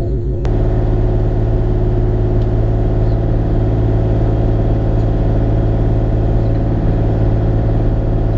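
Bobcat E35 mini excavator's diesel engine running steadily under work. It cuts in abruptly about half a second in.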